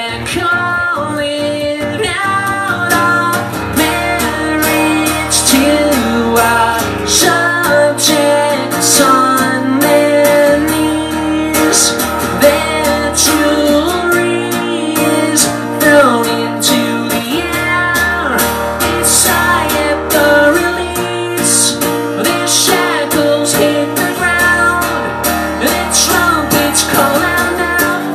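Acoustic guitar strummed with a steady rhythm, an instrumental stretch of a solo acoustic song played live.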